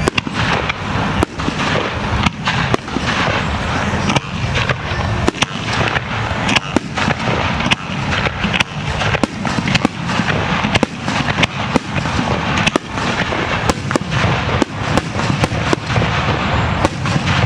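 Starmine barrage of aerial firework shells: a rapid, unbroken run of sharp bangs, several a second, over continuous crackling.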